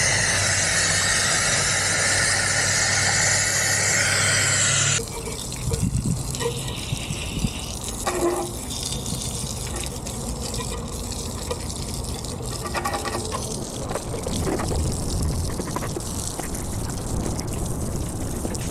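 Water spraying from a hose onto a car wheel to rinse off the soap, with a low steady hum, cutting off suddenly about five seconds in. After that, water runs and trickles off the car.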